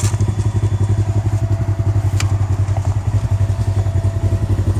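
Polaris RZR XP 1000's parallel-twin engine idling steadily through a Yoshimura aftermarket exhaust, a fast even pulsing, with a single sharp click about two seconds in.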